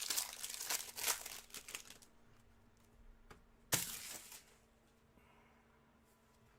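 Trading card hanger box packaging being torn open: crinkling and tearing for about two seconds, then one sharp rip nearly four seconds in.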